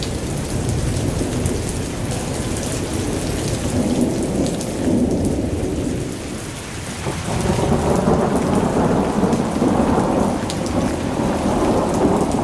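Heavy rain pouring down, a dense low roar with scattered sharp drop hits. It eases briefly about six seconds in, then swells louder again.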